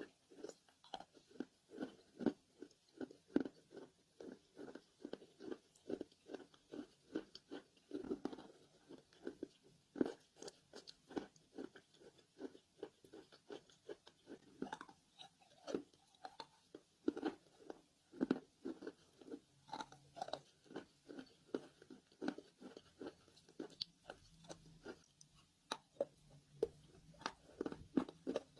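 Close-miked chewing of dry roasted Nakumatt clay: a steady run of short, crisp crunches, several a second, as the pieces are bitten and ground between the teeth.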